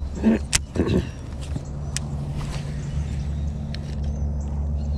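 Boat motor running with a steady low hum, with a few sharp clicks over it.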